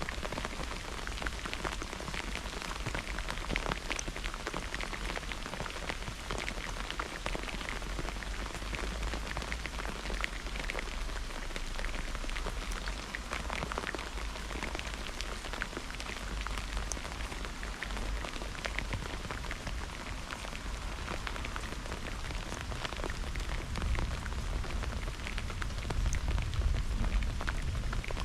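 Steady rain falling, with many individual drops ticking close by. A low rumble runs underneath and grows louder near the end.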